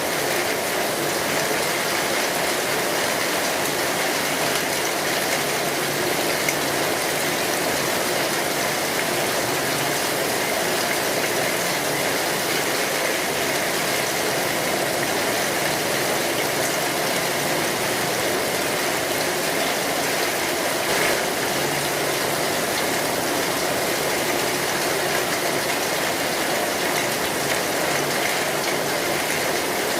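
Steady rain drumming on a metal roof, with the small pops and crackles of a wood fire mixed in.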